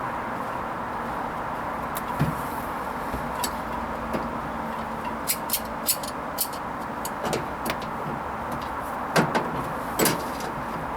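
Hoover Vision HVP16 washing machine running a Silks 30 wash: a steady running noise with scattered sharp clicks and knocks from the drum, the loudest about two seconds in and twice near the end.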